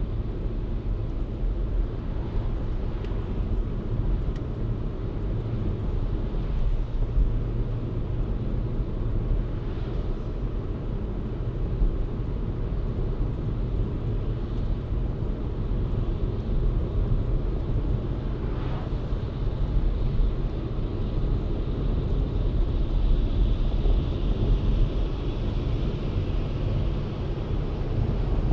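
Car being driven, with a steady low rumble of engine and tyre road noise. A faint higher tone slides downward near the end.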